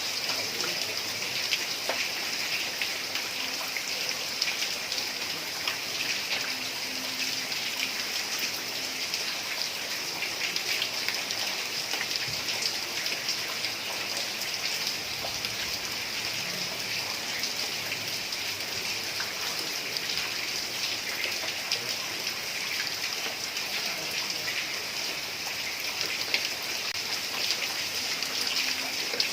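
Heavy rain falling steadily on a tiled roof, a dense even patter with many separate drop ticks.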